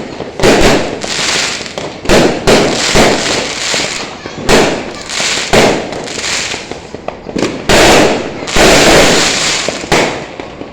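New Year's fireworks going off: a dense, irregular run of loud bangs, sometimes several a second, each trailing off, with a longer sustained burst near the end.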